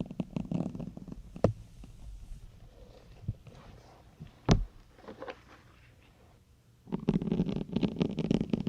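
Syringes being pushed into a soft foam sponge, the foam creaking and crackling as they go in. There is a dense burst of crackling at the start and another from about seven seconds in, with a couple of sharp clicks in between.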